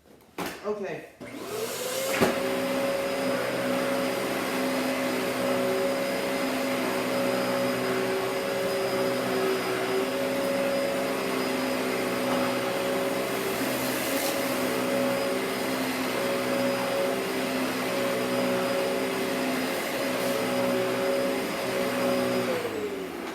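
Vacuum cleaner switched on about two seconds in: the motor spins up quickly to a steady pitched whine and runs, then winds down just before the end.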